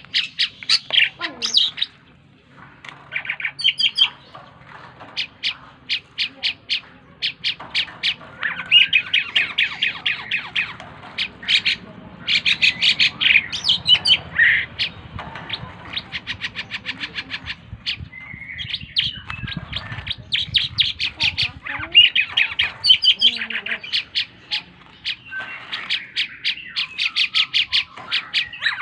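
Glossy starling (jalak keling) singing actively: long runs of rapid, sharp chattering notes in bursts, broken by short pauses and the odd squawky call.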